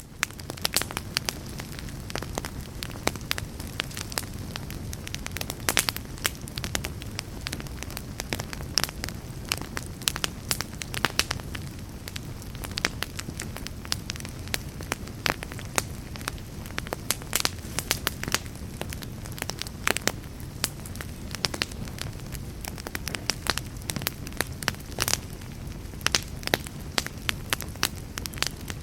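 Burning log fire crackling: frequent sharp snaps and pops over a steady low rumble.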